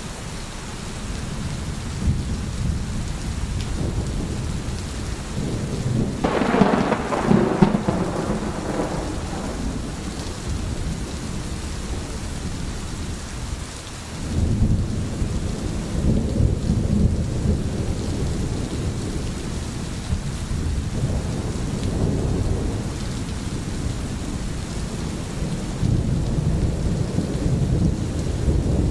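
Steady rain falling, with rolling thunder underneath: a louder, crackling peal about six seconds in, and further deep rumbles from about halfway on.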